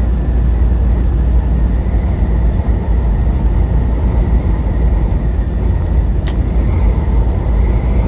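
Semi-truck heard from inside the cab while driving: a steady low rumble of engine and road noise in strong wind, with a single sharp click about six seconds in.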